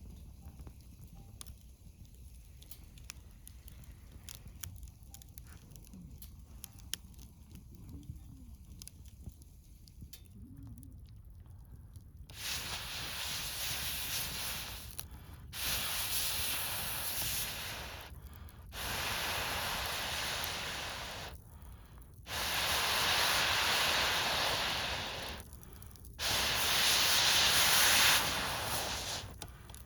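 Campfire crackling faintly, then from about twelve seconds in, five long hissing blasts of about three seconds each with short pauses between them: long breaths blown into the fire to fan it.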